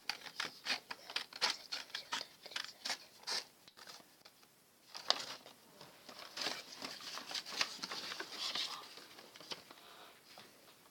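Scissors cutting through folded paper: a run of short snips with paper rustling between them.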